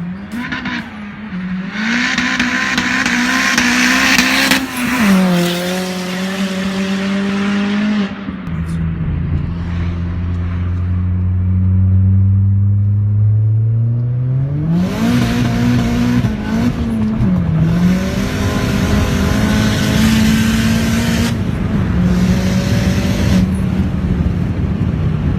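Big-turbo Peugeot 207 RC's tuned turbocharged four-cylinder engine under hard load and high revs. The pitch drops at gear changes and climbs again through a long pull.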